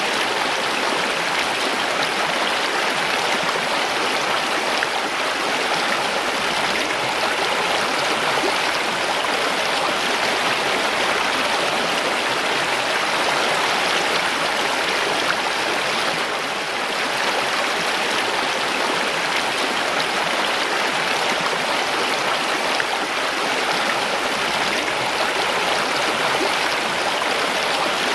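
Mountain stream flowing over rocks: a steady rushing and splashing of water.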